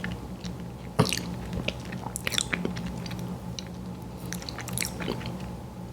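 Close-miked eating of a fast-food dessert pie: one sharp crunchy bite about a second in, then crisp crackling chews in two short clusters.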